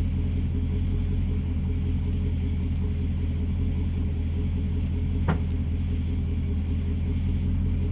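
2009 Pontiac G8 GT's 6.0-litre V8 idling steadily through a Solo Performance axle-back exhaust, a low, even note with no revving. A single short click sounds a little past halfway.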